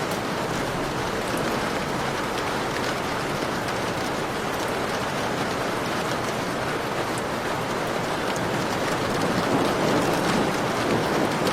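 Heavy rain falling steadily, a dense hiss with fine spattering drops, swelling a little louder near the end.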